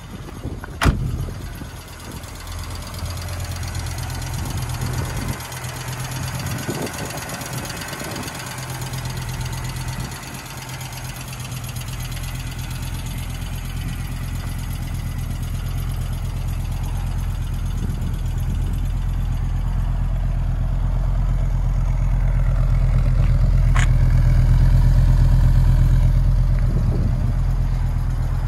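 1986 Audi 4000CS Quattro's inline five-cylinder engine idling steadily just after a cold start, still warming up with the oil temperature low. There is a single sharp knock about a second in.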